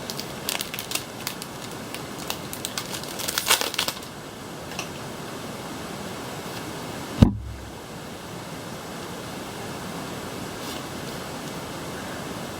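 Foil booster pack wrapper crinkling and trading cards being handled for the first few seconds, then a steady hiss with a single low thump about seven seconds in.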